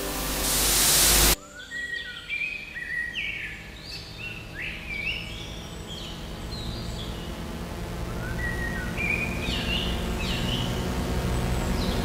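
A loud hiss of white noise swells and cuts off abruptly just over a second in. Birds then chirp in short rising and falling calls over a low steady hum that slowly grows louder.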